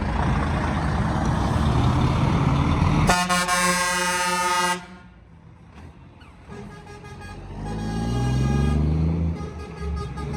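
Truck air horn sounding one long steady blast about three seconds in, cut off sharply after under two seconds, over road and engine rumble. Later a heavy truck engine pulls away, rising in pitch.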